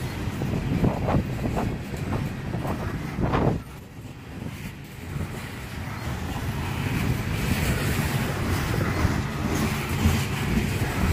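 Open-top gondola cars of a freight train rolling past on steel wheels. For the first few seconds the wheels clack over the rail joints several times, then they settle into a steadier rolling rumble and hiss that grows toward the end.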